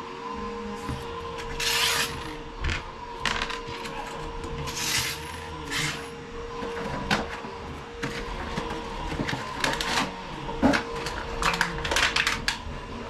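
Handling clatter: a string of sharp clicks and knocks, with two short hissing scrapes about two and five seconds in, over a steady hum.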